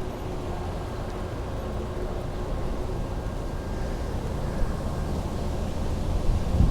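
Steady low rumble of wind and road noise on the camera microphone of a moving bicycle, growing slightly louder toward the end.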